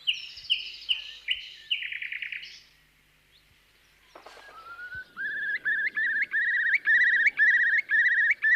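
Nightingale singing phrases of rapid repeated notes, breaking off about two and a half seconds in. After a short pause, a curlew's bubbling call begins about five seconds in: a long run of repeated rising, trilling notes.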